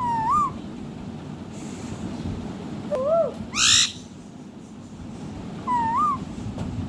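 Indian ringneck parrot calling: three short whistled notes that rise and fall, about three seconds apart, and one loud harsh screech just after the second note.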